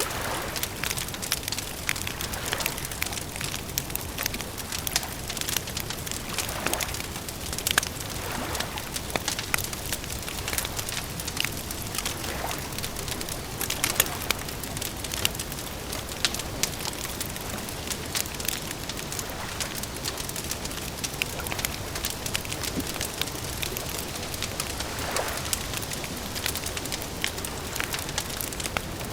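Wood campfire crackling: a steady hiss with frequent sharp pops and snaps, one louder pop about halfway through, and a few soft whooshes.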